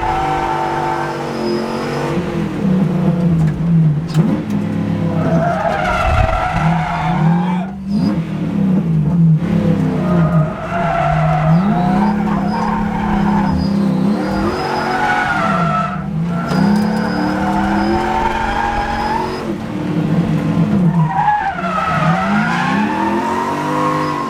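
Toyota 1UZ 4.0-litre V8 in a drift car, revving hard again and again, rising, holding high revs for a second or two and dropping back, with tyres squealing through the slides.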